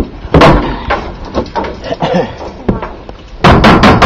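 A sharp knock, a few weaker bumps, then near the end a loud rapid rattle of about six even strokes a second begins.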